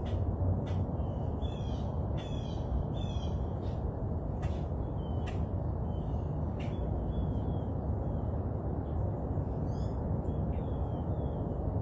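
Wild birds calling repeatedly in short, high chirps, some of them quick sliding notes, over a steady low rumble.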